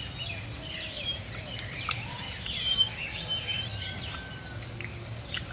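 Birds chirping: many short overlapping calls and a few brief whistled notes.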